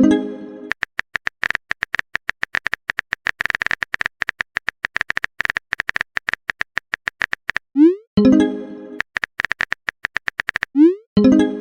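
Phone keyboard typing sound effects: rapid, irregular runs of clicks. About 8 s in and again near the end, a quick rising swoosh and a short chime mark a message being sent. Music plays underneath.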